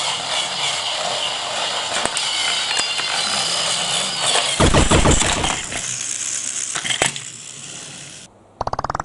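A plastic toy train set clattering and clicking: a busy rattle with a louder low rumble about five seconds in and a sharp click about seven seconds in. It fades, then a rapid buzzing pulse comes near the end.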